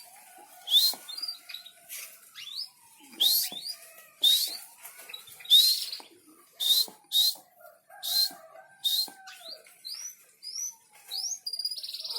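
Small songbird calling: short, sharp rising chirps repeated roughly once a second, over a fainter, slowly wavering lower whistle.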